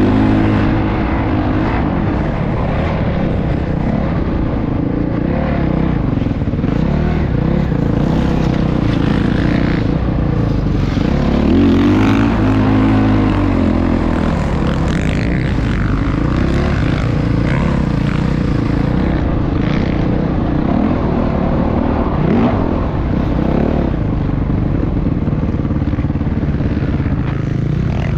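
Motocross bike engine revving up and down continuously, its pitch rising and falling with each throttle change.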